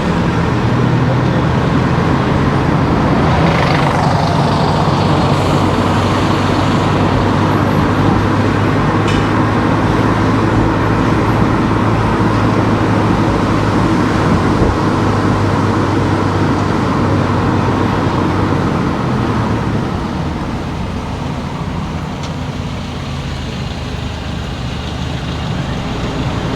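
A car driving on town streets: a steady low engine hum over tyre and road noise, a little quieter for the last several seconds.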